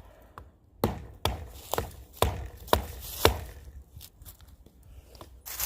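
Wooden baton striking the spine of a pocket knife, driving the blade into the trunk of a dead standing tree: sharp knocks about two a second, six strong strikes followed by a few lighter ones near the end.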